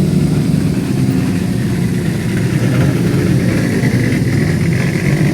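A historic rally car's engine idling steadily.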